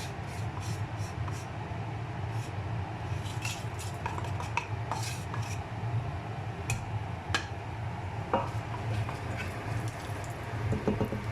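Metal spoon clinking and scraping against a cooking pot as whole spices are stirred into hot oil, with a light sizzle, over a steady low hum.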